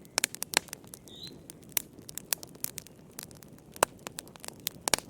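Wood fire crackling in a fireplace, with irregular sharp pops over a low steady rustle. A single short bird chirp about a second in.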